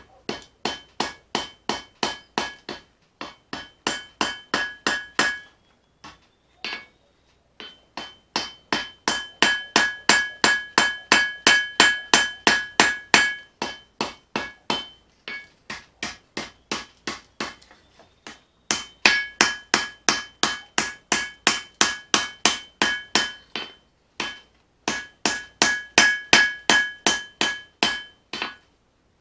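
Hand hammer forging leaf-spring steel on an anvil: steady blows about three a second, in runs of several seconds with brief pauses between, each blow with a bright metallic ring from the anvil.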